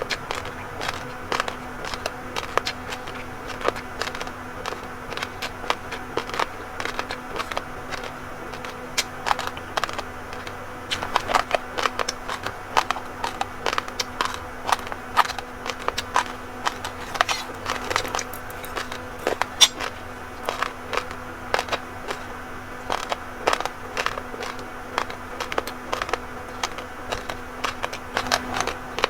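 Close-miked chewing of raw, uncooked rice grains: rapid, irregular crunching and cracking clicks that go on without a break, over a faint steady hum.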